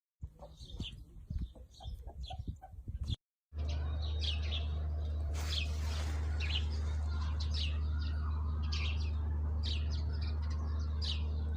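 Birds chirping in many short, high calls over a steady low hum. Before a brief cut about three seconds in, there is irregular knocking and rustling with faint chirps.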